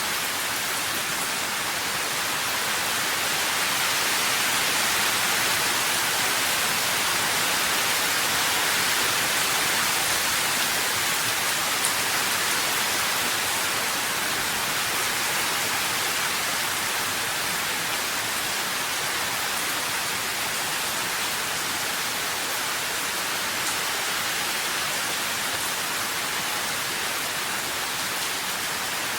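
Steady rain, an even hiss of falling water that swells slightly a few seconds in.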